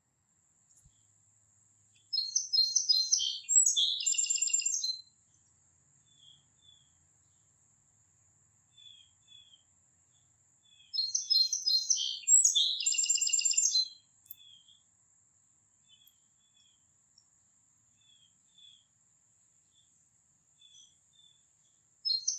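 A songbird singing: a busy, fast-trilled phrase about three seconds long, given twice and starting a third time near the end, with faint single chirps in between.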